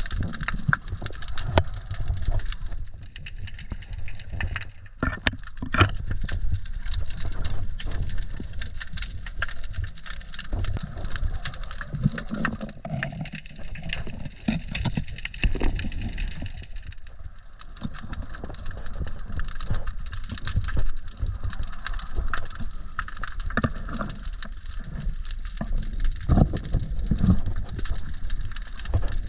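Seawater sloshing and gurgling around the camera, over a low rumble with scattered knocks.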